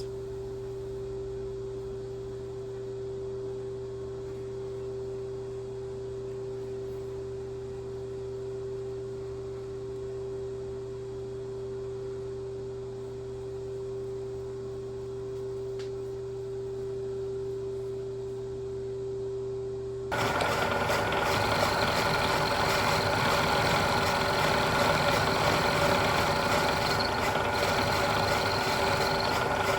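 Milling machine in a machine shop: a steady hum with one clear tone for about twenty seconds. Then, abruptly, a louder, busier running noise as the machine is under way with the end mill turning.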